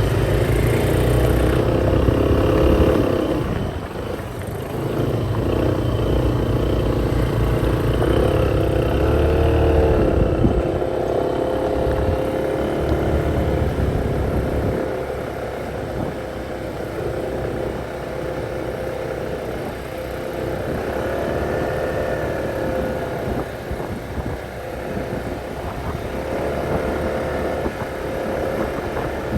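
Small motorcycle engine running under way, its pitch rising and falling a few times with the throttle.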